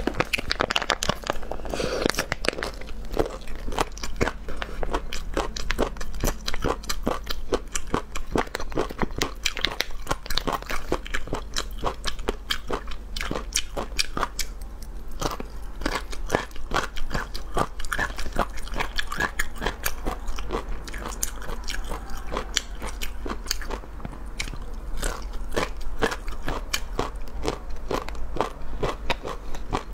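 Close-miked chewing and biting of spicy snack strips, with dense, quick crunches throughout.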